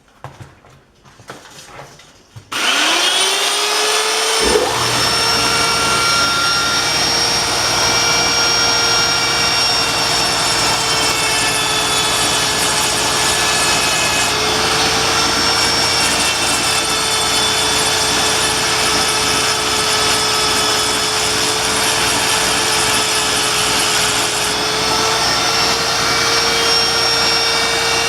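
Die grinder spinning up about two and a half seconds in, then running steadily with a high whine while grinding the rib off the inside edge of a thin sleeve. A lower hum joins about two seconds later.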